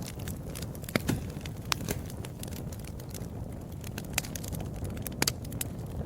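Wood fire crackling and popping: irregular sharp snaps, a few louder pops, over a steady low rumble of the burning fire.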